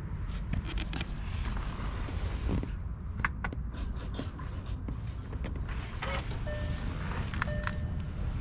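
Steady low rumble with scattered clicks and knocks. About six seconds in, a simple tune of short held tones begins.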